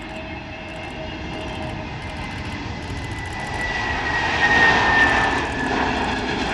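Jet airliner passing on approach, its engine noise building to a peak about four to five seconds in, with a thin fan whine that slides slowly down in pitch as it goes by.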